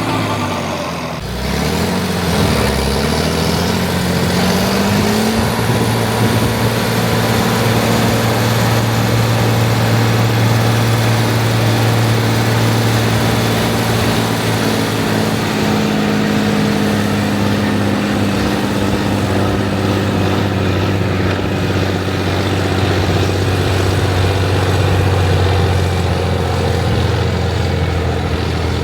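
Rába 250's diesel engine running. Its pitch drops and then climbs over the first few seconds, then it holds a steady speed.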